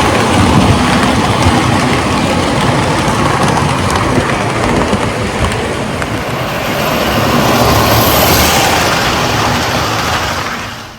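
Toy electric train running on O-gauge track: a steady rolling rumble and clatter of the locomotive's motor and wheels. It grows louder about two-thirds through as the train comes closer, then fades away near the end.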